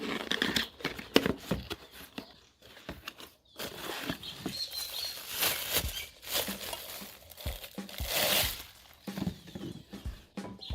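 Packaging being handled: plastic and cardboard rustling and crinkling, with scattered light knocks and clicks.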